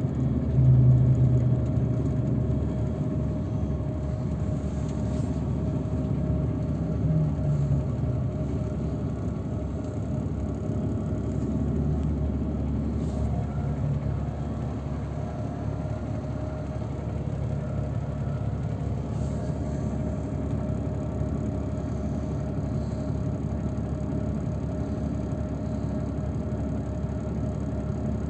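Engine and road noise of a moving transfer vehicle, heard by a passenger riding in it: a steady low rumble, with the engine note swelling about a second in and rising briefly again around seven seconds in.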